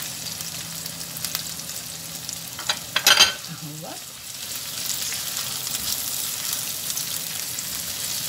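Sliced bell peppers, onion and garlic sizzling in oil in a steel frying pan as a spatula stirs them. A few sharp knocks come about three seconds in, and the sizzle grows louder about halfway through.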